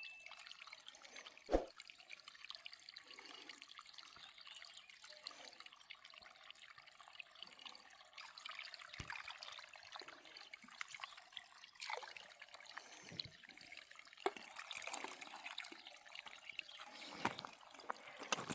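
Faint trickling, splashing water with scattered small knocks.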